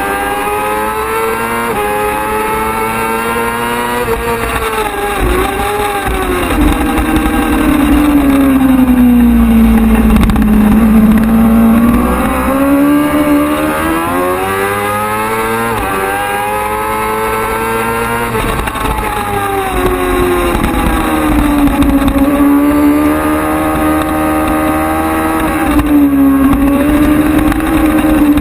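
Superbike racing motorcycle engine running hard through a lap, its pitch sinking to a low point about ten seconds in and then climbing again, with several quick drops and rises as it shifts and slows for corners.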